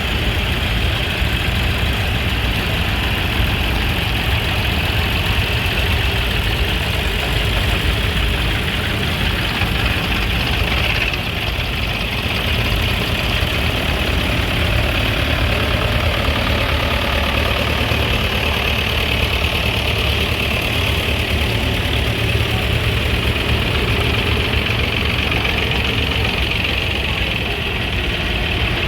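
An engine idling steadily at a low, even speed.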